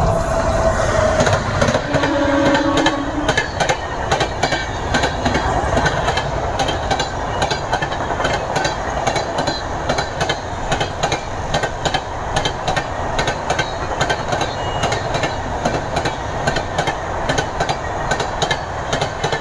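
Express passenger train running at speed, its coach wheels clacking over the rail joints over a steady rumble, with a few short tones in the first three seconds.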